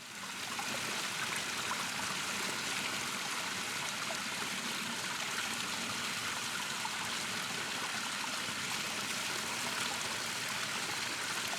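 A stream running steadily, a continuous rushing and trickling of water.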